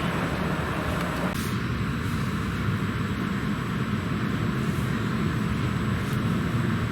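Regional passenger train running, a steady low rumble with track and running noise, and a faint click or two.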